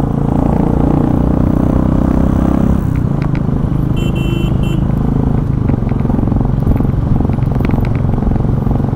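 Royal Enfield Bullet Classic 350's single-cylinder engine running steadily on the move, with a quick run of high-pitched beeps about four seconds in.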